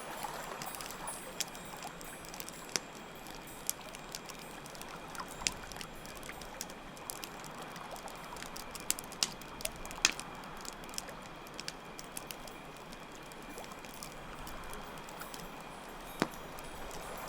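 Campfire crackling, with sharp pops scattered irregularly and the loudest about ten seconds in, over a steady wash of water and a faint, steady high chirping of crickets.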